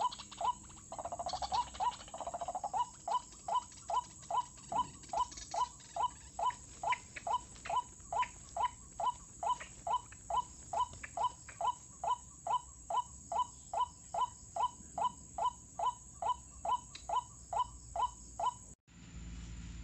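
White-breasted waterhen calls: a long, even run of short rising notes, about two and a half a second. A fuller call overlaps them about a second in. Near the end the calls stop abruptly and a steady low hum takes over.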